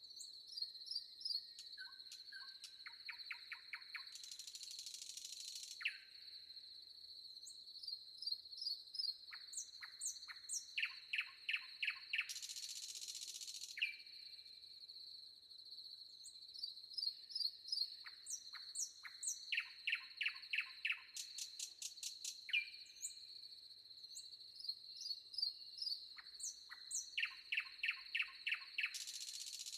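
Birds singing in a forest, with repeated trills of short falling notes and scattered high chirps. A steady high insect drone runs underneath, and three brief stretches of high hiss come and go.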